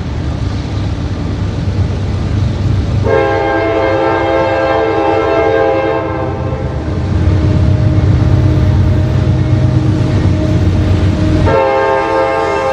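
CSX diesel freight locomotives going by with their engines rumbling, the air horn sounding a long chord of several notes about three seconds in, easing off, then blowing again strongly near the end.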